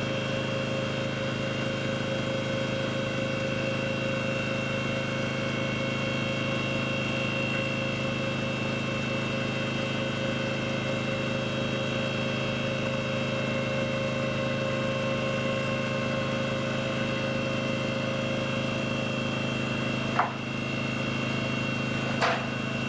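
A motor or engine running steadily at one unchanging pitch, with two short sharp clicks near the end.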